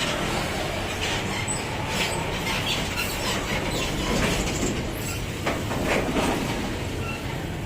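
Heavy 12-wheel truck running slowly, its engine giving a steady low rumble, with irregular knocks and rattles spread through.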